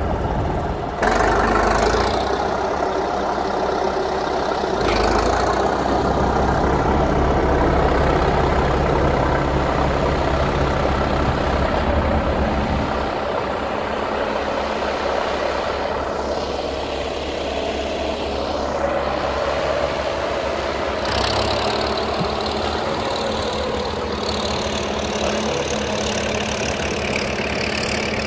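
Tractor engine running. It gets louder about a second in and changes tone a couple of times as the load on it shifts.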